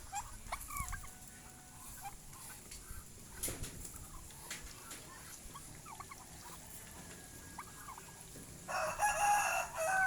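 Chickens calling with short clucks and peeps, then a rooster crowing loudly near the end.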